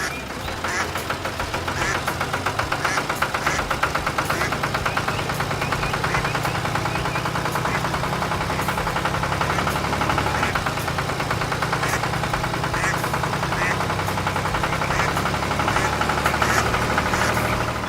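An engine running steadily with a rapid, even chugging. It cuts off abruptly at the end.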